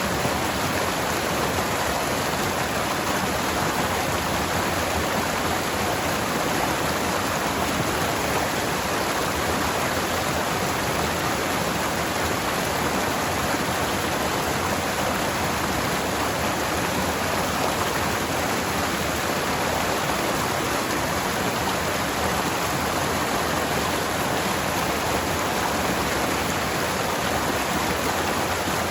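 Forest stream flowing over rocks: a steady rush of running water.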